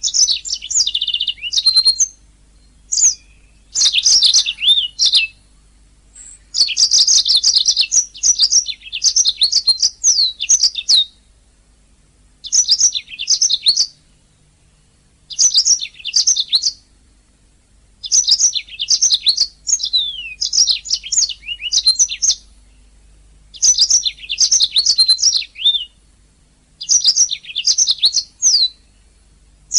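Domestic canary singing: rapid trilling, chirping song phrases of a few seconds each, broken by short pauses.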